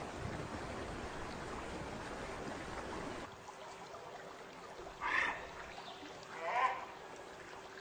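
Steady rushing water for about three seconds, then a sudden cut to a quieter background with a faint steady hum and two short calls about a second and a half apart.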